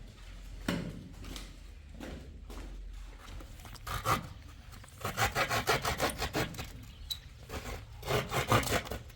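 Hand saw cutting wood: a couple of scattered knocks, then two runs of quick back-and-forth rasping strokes, one about halfway through and one near the end.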